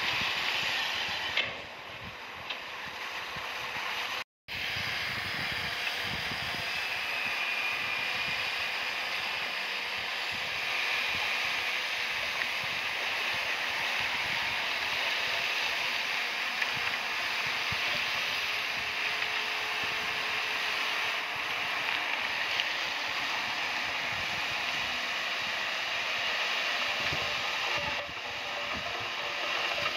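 Komatsu crawler bulldozer at work, its engine running under a steady mechanical clatter from the tracks. The sound breaks off briefly about four seconds in.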